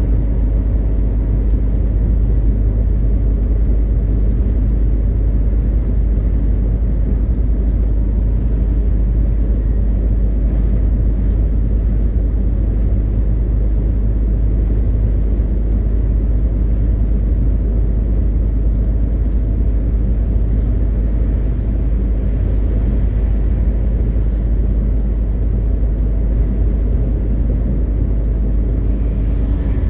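MAN TGX 520 truck's diesel engine running steadily while driving: a deep, even drone with some faint steady tones, mixed with road and tyre noise.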